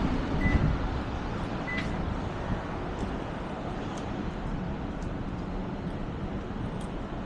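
Steady road and engine noise of a moving vehicle, heard from inside, with two short high beeps about half a second and a second and a half in.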